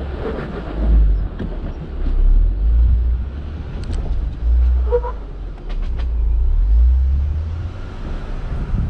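Jeep engine on the sand climb, its low rumble swelling and easing in several surges as the throttle is worked.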